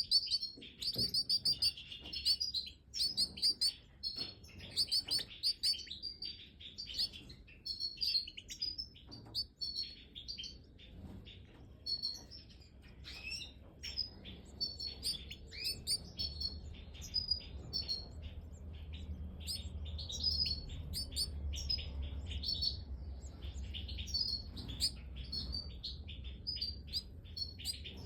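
Major goldfinches giving dense, rapid, high twittering chirps without a break. A low hum runs underneath and grows stronger in the second half.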